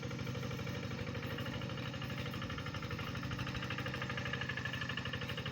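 Tractor engine running steadily, with an even pulsing beat.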